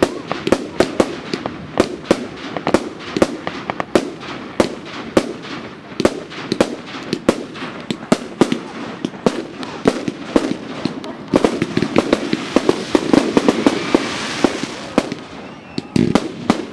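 Fireworks going off in rapid succession: many sharp cracks and bangs, several a second, with a denser crackling spell from about eleven seconds in.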